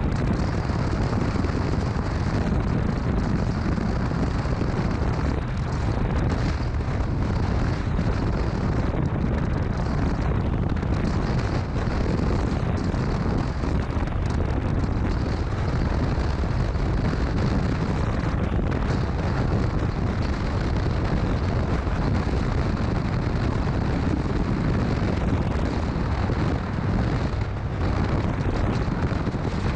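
Steady low rumble of wind buffeting the microphone on a moving motorcycle, mixed with the motorcycle's engine and road noise.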